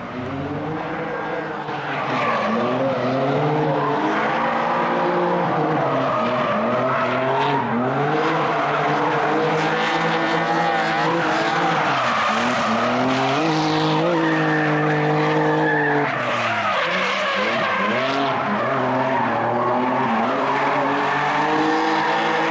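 Drift cars at full throttle, engines revving up and down repeatedly as they slide, with tyres squealing and skidding.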